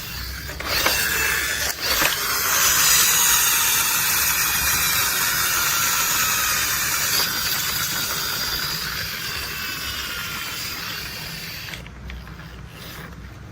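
A few sharp clicks, then a long hissing sound with faint gliding whines in it, which fades out over about ten seconds and stops shortly before the end.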